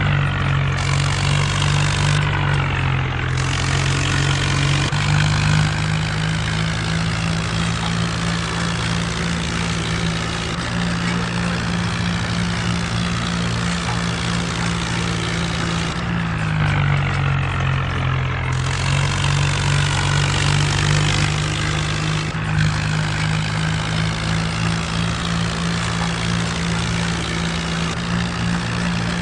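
Mahindra Arjun tractor's diesel engine running steadily while driving a rotavator, its pitch sagging and recovering about sixteen seconds in.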